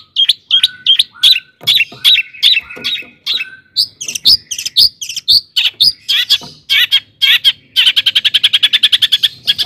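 Long-tailed shrike singing loudly: a series of sharp, repeated notes, two to three a second, then about two seconds before the end it breaks into a fast, rapid chatter of notes.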